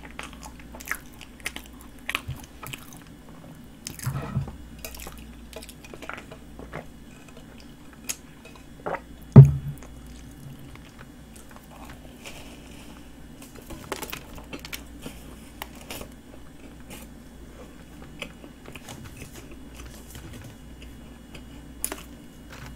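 Chewing and biting a flaky butter-cream pastry: scattered soft crunches and crumbly clicks with wet mouth sounds, and one louder low thump about nine seconds in.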